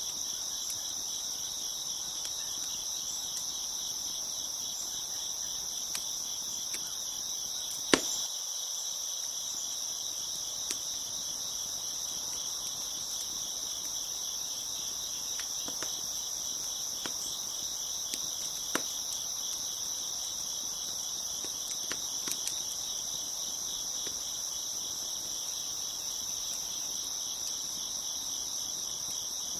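A chorus of crickets chirping steadily, with scattered pops and crackles from a wood fire, the loudest about eight seconds in.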